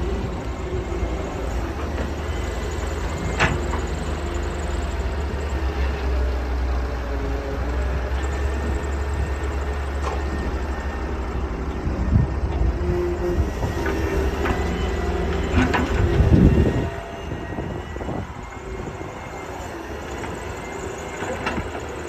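Doosan DX-160 excavator's diesel engine running with a steady low rumble, with a few sharp metallic clanks. A louder burst comes about sixteen seconds in, and the running is quieter after it.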